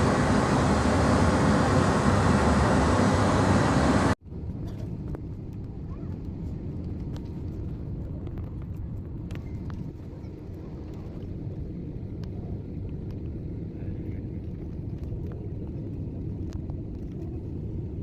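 Loud, steady roar of airliner cabin noise. About four seconds in it cuts off suddenly, giving way to a quieter, steady low rumble with faint scattered clicks.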